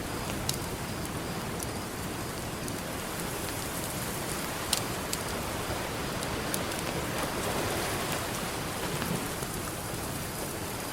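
Campfire crackling with scattered sharp pops, the loudest about halfway through, over a steady wash of ocean surf that swells slightly near the end.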